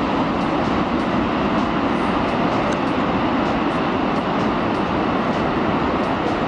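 Steady, loud rushing noise with no let-up.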